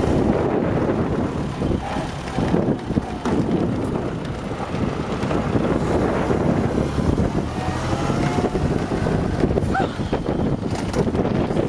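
1923 Fiat 501's four-cylinder side-valve engine running steadily as the open car is driven along, with wind noise on the microphone.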